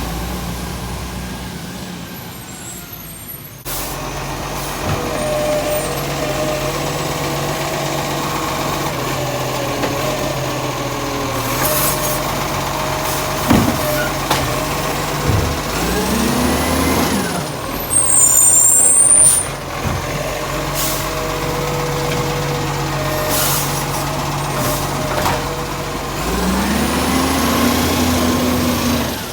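Side-loader garbage truck working a bin collection: its diesel engine runs steadily and revs up twice, about halfway and near the end, as the hydraulic lifting arm works, with short air-brake hisses.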